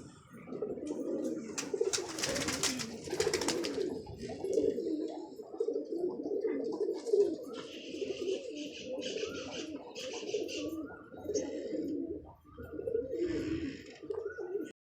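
Domestic pigeons cooing continuously, several birds overlapping. A loud burst of noise about two seconds in lasts a second and a half, and shorter hissy patches follow later.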